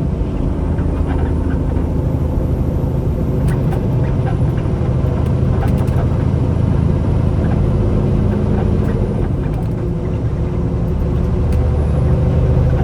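Semi truck's diesel engine droning steadily, with road noise, heard from inside the cab while driving; the engine note shifts slightly partway through.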